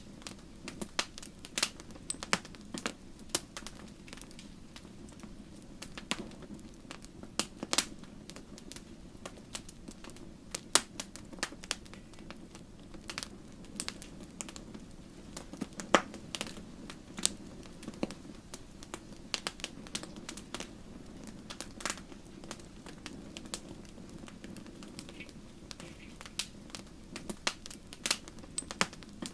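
Wood fire in a fireplace crackling, with irregular sharp pops and snaps from the burning logs over a steady low rumble of the flames.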